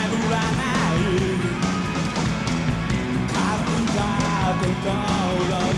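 Rock band playing at full volume, with electric guitar and steady drums and a wavering lead line on top.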